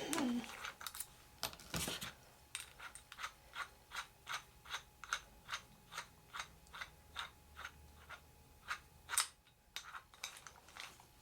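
Drill chuck ratcheting as it is turned by hand to change the bit: a steady run of evenly spaced clicks, about three a second, with a few louder knocks at the start and near the end.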